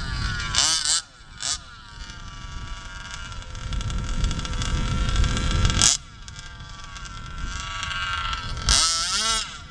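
Small two-stroke engine of an HPI Baja gas RC buggy revving hard, its pitch swinging up and down in quick bursts, then running at a steadier, slowly rising pitch for several seconds. A short loud burst of noise cuts in about six seconds in, and a fast, wavering rev comes near the end.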